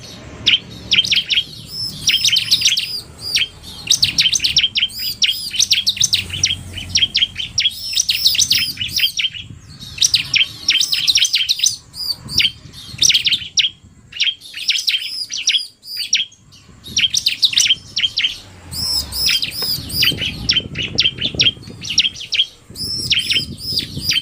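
Bar-winged prinias (ciblek) singing: fast runs of sharp, high chirping notes in phrases of one to two seconds, repeated with short pauses, a male's song mixed with a female's quick calls.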